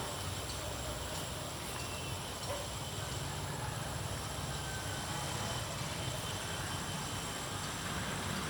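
Steady outdoor background of wind rumbling on the microphone, with faint steady high-pitched tones above it.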